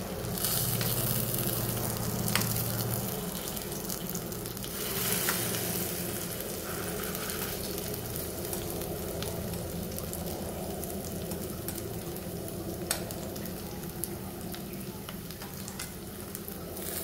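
Sweet potato slices sizzling in ghee in a kadhai, with a few light clinks and scrapes of a metal spoon on the pan as the slices are turned over one by one.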